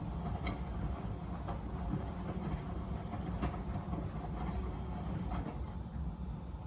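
Miele W Classic WDA211WPM washing machine running a 40°C colour-wash cycle: a steady low rumble with scattered light clicks.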